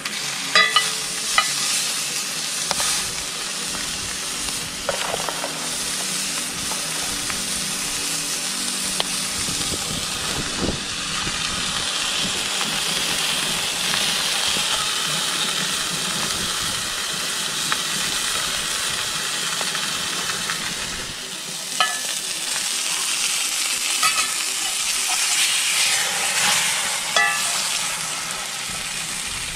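Thick burger patty frying in a pan over a campfire: a steady sizzling hiss, with a few light sharp clicks now and then.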